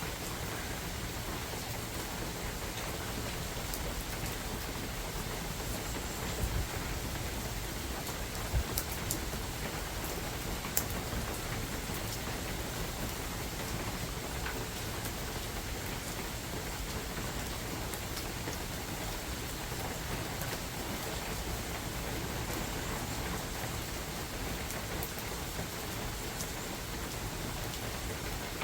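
Steady rain falling in a forest, with a few louder single drops striking close by.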